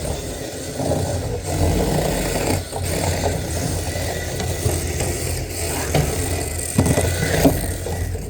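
Small RC cars' motors and wheels running, with a few sharp knocks near the end.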